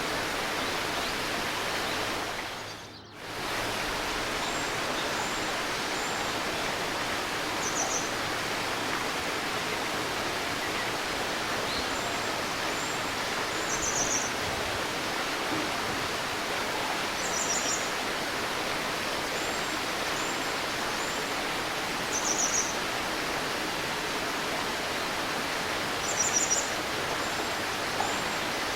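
Steady murmur of a babbling river, with small birds giving short, high chirps every few seconds. The water sound briefly fades out and back about three seconds in.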